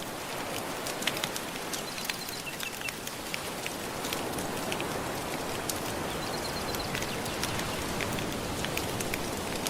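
Gentle ocean waves washing steadily, with a wood fire crackling over them in frequent sharp pops.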